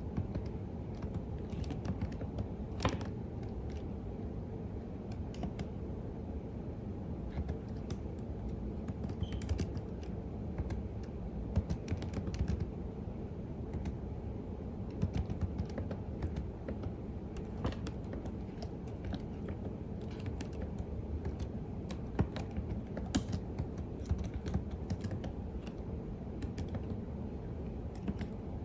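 Computer keyboard being typed on continuously at a calm pace: irregular, closely spaced key clicks with the odd louder keystroke, over a steady low background hum.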